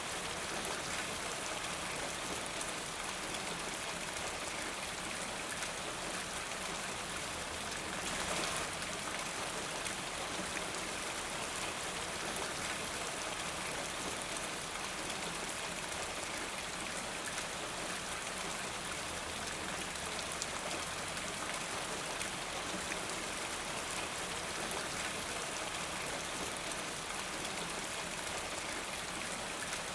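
Steady rain falling, an even hiss of many drops, with a brief swell about eight seconds in.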